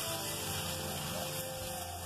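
Ground spices and ginger paste frying in hot oil in a kadai, a steady sizzle, with soft background music.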